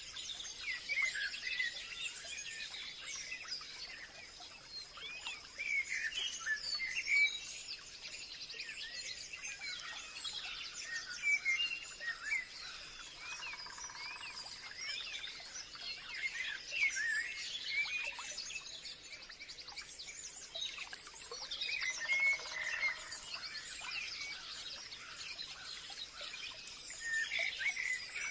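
Many forest birds chirping and calling over one another, with short rapid twittering phrases throughout. A steady high-pitched tone runs underneath.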